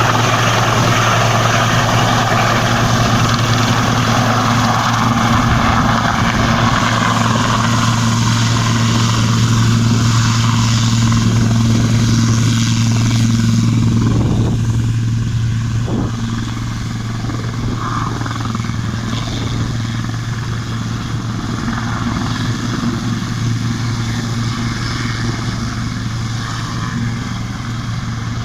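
Helicopter running on the ground after landing, its engine and rotor giving a steady low hum under a broad rushing noise. The sound drops noticeably in loudness about halfway through and stays steady at the lower level.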